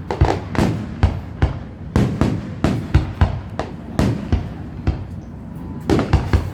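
Aerial fireworks bursting in rapid, irregular succession, a few loud bangs a second, each with a short rumbling tail, with a brief lull shortly before the end.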